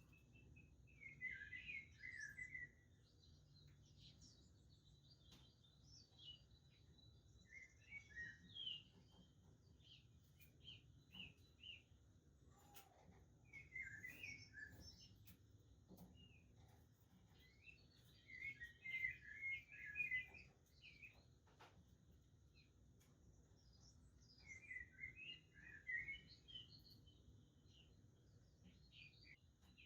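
Budgerigars chirping and warbling in short bouts of a second or two, five or so times, over faint low background noise.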